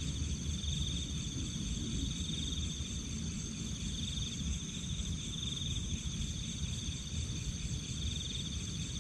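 Night insects chirring steadily in high tones, the loudest one swelling and fading about every second, over a low rumble.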